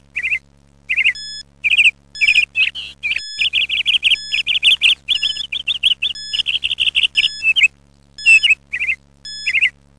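A small songbird chirping in quick, repeated trills, in phrases separated by brief pauses.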